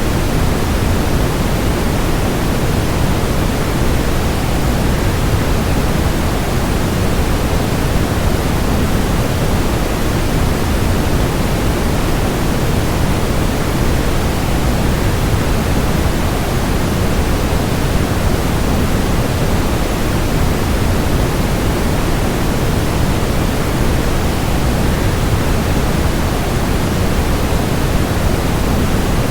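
Waterfall white noise: an even, unchanging rush of falling water, deepest in the low end, with no breaks or separate splashes.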